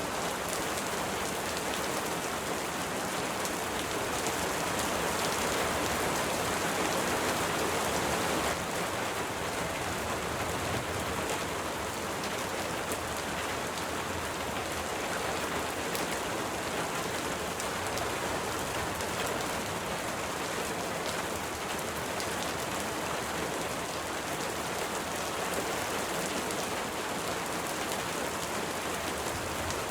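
Steady rain falling, an even hiss flecked with the taps of individual drops. It swells slightly for a few seconds and then drops back abruptly about eight seconds in.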